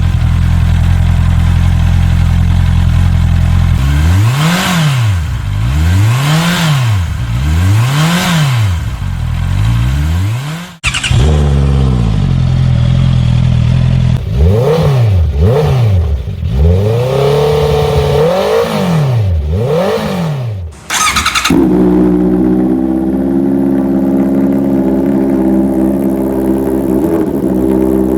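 Honda CB650R inline-four engine breathing through aftermarket full exhaust systems, in three cut-together clips. In the first two the bike idles and is then blipped up and down again and again, about one rev every two seconds. The last clip holds a steady note.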